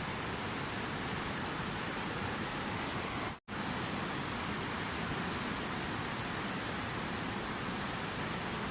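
Steady rushing water from a relaxing water-sounds track, an even hiss with no changes, cutting out completely for a split second about three and a half seconds in before resuming.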